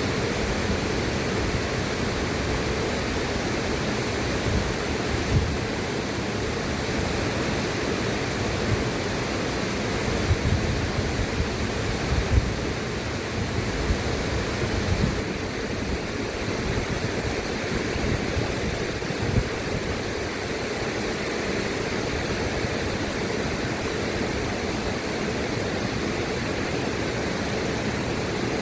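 Steady rushing of a river's flowing water, with small low surges now and then.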